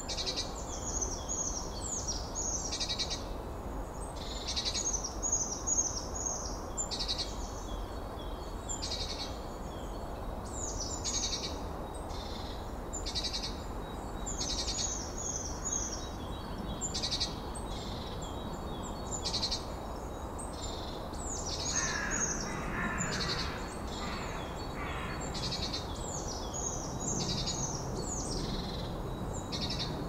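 Wild birds singing: many short, high chirping phrases repeat over and over, above a steady low background noise. About two-thirds of the way through, a lower call joins briefly.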